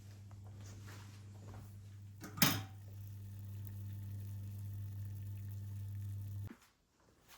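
A steady low electrical hum, like a running household appliance, that cuts off abruptly about six and a half seconds in. A single sharp knock comes about two and a half seconds in.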